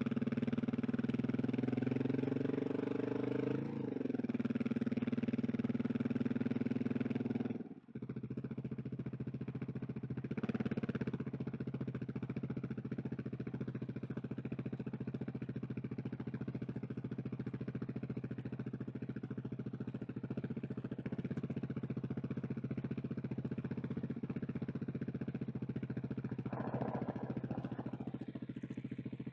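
KTM 690 SMC R's single-cylinder engine running, its pitch rising and falling a little for the first several seconds. About eight seconds in it dips briefly, then settles into a steady, even note at lower volume.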